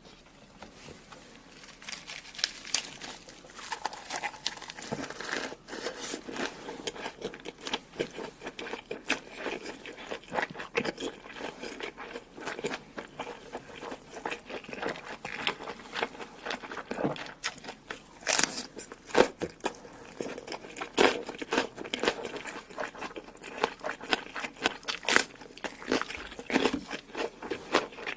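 Close-up mukbang eating sounds: a person biting and chewing food with a dense, irregular run of crunches and mouth clicks. Faint at first, it picks up about two seconds in.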